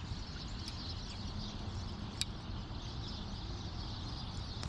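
Steady rush of creek water flowing around the wader, with a low rumble and a few faint sharp ticks, one about two seconds in.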